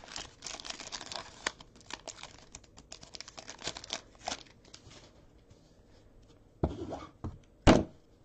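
A plastic trading-card pack wrapper being torn open and crinkled, with a run of short crackles. Two louder knocks come near the end.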